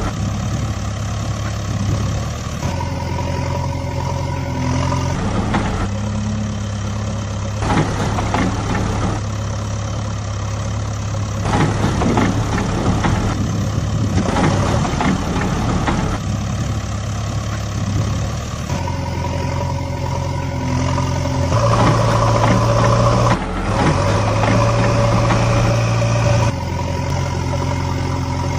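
Steady engine-like drone, running continuously, its note shifting to a new level every few seconds.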